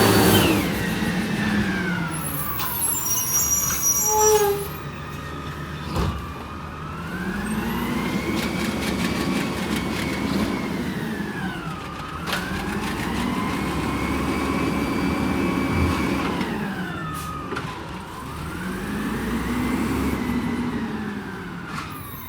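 Peterbilt 320 garbage truck revving up and falling back again and again, its pitch rising and falling in slow waves about every six seconds, typical of the engine speeding up to drive the packer hydraulics. There is a sharp knock about six seconds in and another near the end.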